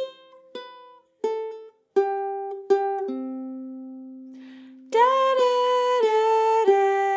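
Ukulele lick picked slowly with the thumb, one note at a time: six single notes, the last an open C string left ringing. About five seconds in the lick starts again, louder.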